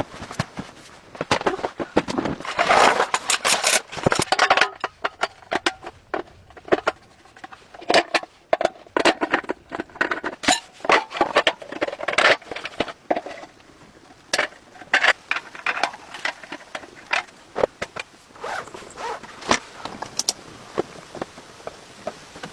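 Irregular crackling, scraping and clicking of things being handled, in short uneven clusters.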